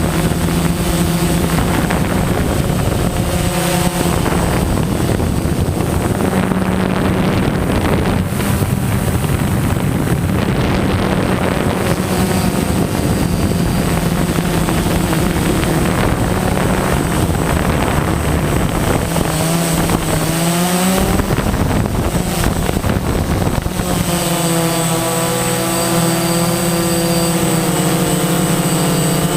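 DJI Phantom quadcopter's motors and 9-inch propellers humming in flight, the pitch shifting with throttle, with wind rushing over the microphone. The pitch sweeps up about twenty seconds in, and the hum turns steadier and cleaner for the last few seconds.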